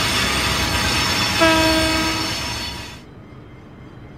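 Grain hopper wagons rolling past with steady wheel and coupling rattle and hiss, and a short train horn blast about a second and a half in. About 3 s in the sound drops suddenly to a quiet low hum.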